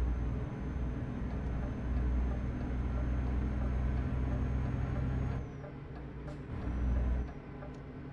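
Truck engine and drivetrain droning inside the cab while driving; the engine note falls away about five and a half seconds in, as if the throttle is let off, then swells briefly again about a second later.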